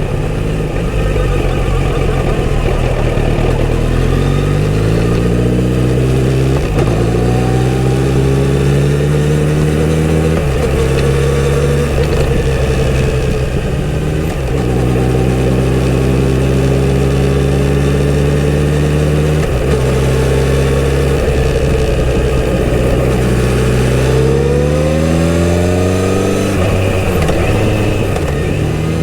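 Kawasaki Z900RS inline-four engine through its stock exhaust, pulling up through the gears: the pitch rises, then drops at each upshift, four shifts a few seconds apart. It then holds a steady cruise, eases off, and pulls away again with another upshift near the end.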